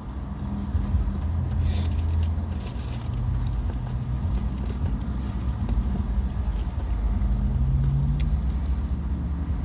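Low steady rumble of a car heard from inside the cabin, with a few brief light rustles.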